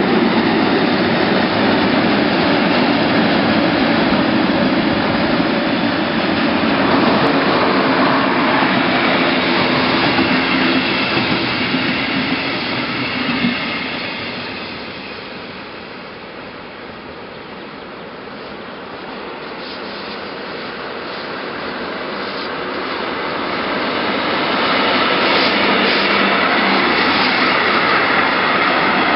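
A class 143 electric locomotive and its train running past on the track. The loud rolling noise fades away after about a dozen seconds, then builds up again toward the end.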